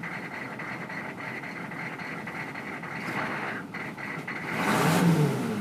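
1996 GMC 2500HD's 6.5-litre turbo-diesel V8 idling, then revved once near the end, its pitch rising and falling back. It runs rough, which the owner puts down to air not yet purged from the fuel system and injectors he is pretty sure need replacing.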